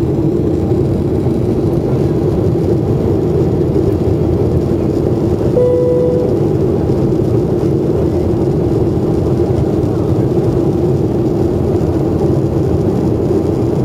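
Steady cabin noise of a jet airliner in flight, the engines and airflow making a constant low rumble. A single short chime sounds about six seconds in.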